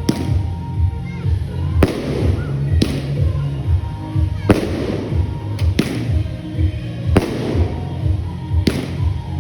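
Consumer fireworks going off: about eight sharp bangs, roughly one every second or so, over music with a heavy, steady bass beat.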